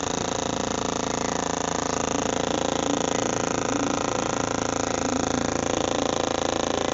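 Washing machine on its spin cycle, the drum and motor running at a steady speed with an even hum of many tones.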